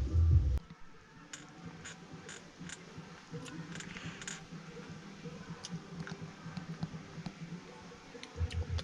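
Scattered light clicks and taps over a faint low hum, between music with a heavy low beat that fades out just after the start and a loud low sound that comes back near the end.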